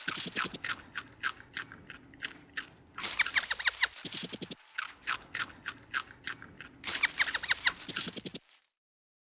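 An animal's rapid high squeaky chirps, short and falling in pitch, at several a second in two long bouts. They cut off suddenly near the end.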